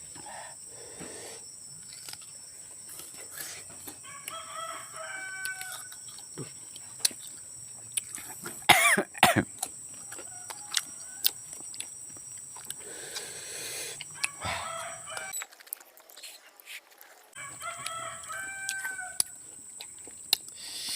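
A rooster crowing twice, about four seconds in and again near the end, over many short sharp clicks of crunchy fruit being chewed. There is a louder short sound about nine seconds in.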